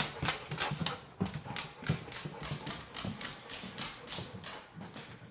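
A Rottweiler's toenails clicking and tapping on a hard floor as the dog moves about, a quick irregular patter of several clicks a second.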